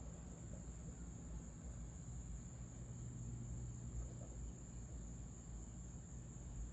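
Insect chorus: a steady, high-pitched trill that holds unbroken, over a low rumble.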